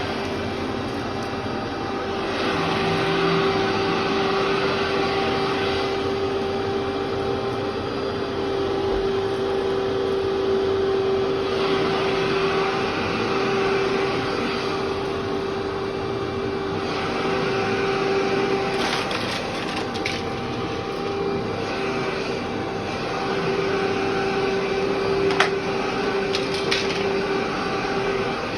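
Vacuum cleaner running over a carpet left three months without vacuuming, its steady motor whine swelling and easing with each pass. Occasional sharp ticks and crunches come from debris being sucked up, a few of them near the end.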